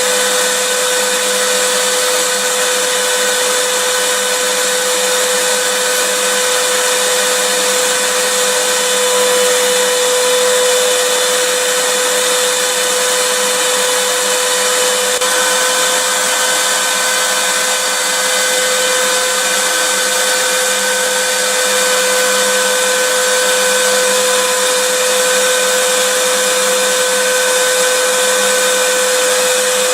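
Vacuum cleaner running steadily, a continuous rushing hiss of air with a steady motor whine.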